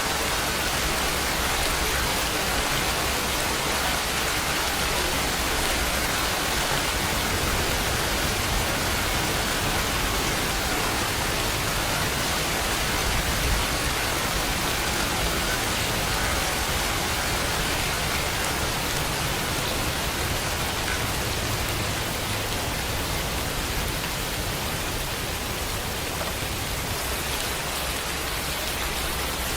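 Steady rainfall, an even hiss of many drops falling on a surface with no single drop or break standing out.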